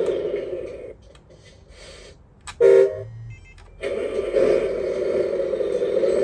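RC truck sound module playing a simulated V8 truck engine through its small speaker: the engine sound runs, then shuts down about a second in. A short, loud horn toot comes near the middle, and the engine sound starts up again and runs steadily after about four seconds.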